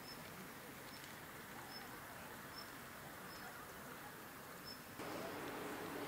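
Faint outdoor background with a small bird's short, thin, high peeps repeating about once a second. About five seconds in, the background steps up louder with a low hum.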